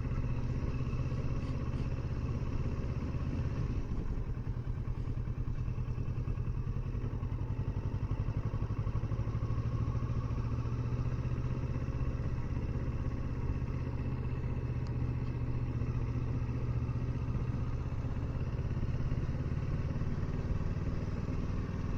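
Kawasaki Versys 650 parallel-twin engine running steadily at low riding speed, with a brief easing off about four seconds in.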